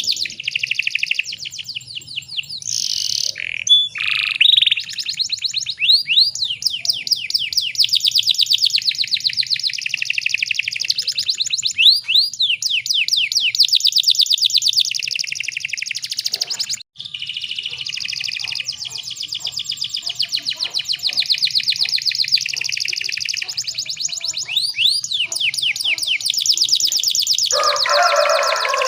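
Canary singing a continuous song of rapid rolling trills, one trill running into the next, with a brief gap about two-thirds of the way in and a lower, coarser phrase near the end.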